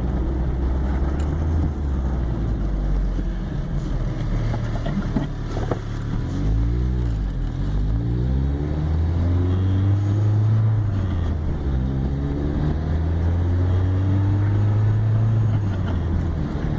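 1981 VW Rabbit's four-cylinder engine pulling the car along, heard from inside the car over road and wind noise. Its note climbs and drops back several times as the car accelerates and is shifted through the gears.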